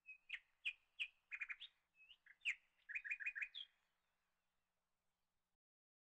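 A bird chirping: a string of short, sharp chirps and quick trills over about four seconds, then it stops.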